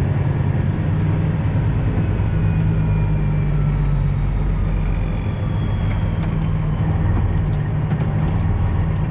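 Semi truck's Detroit Diesel 12.7-litre engine running steadily at low road speed, heard from inside the cab, with a faint whine slowly falling in pitch.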